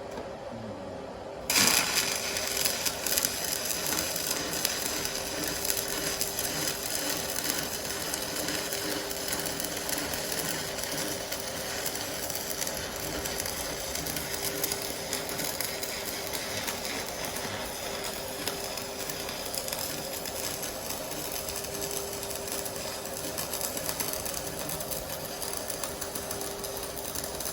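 Electric welding arc from an AC/DC TIG 200A welding machine, struck suddenly about a second and a half in, then burning steadily with a dense hiss and a faint buzz.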